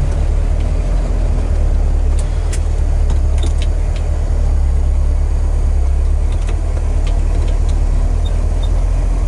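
Crate 350 cubic-inch V8 of a 1967 Chevrolet El Camino running at low speed, a steady low rumble heard from inside the cab, with a few faint ticks.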